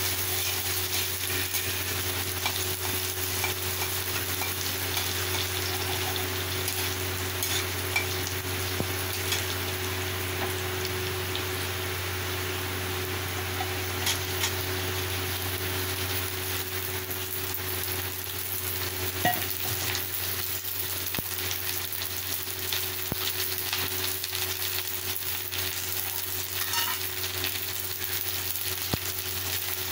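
Onions, chillies and curry leaves sizzling in hot oil in a metal kadai while a metal spatula stirs and scrapes them, with occasional sharp clicks of the spatula on the pan. A steady low hum runs underneath.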